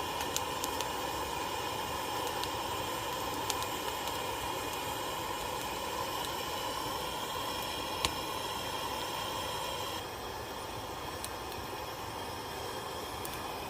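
Mackerel sizzling on a grill over an oak-wood fire: a steady hiss with a few scattered sharp crackles, dropping a little about ten seconds in.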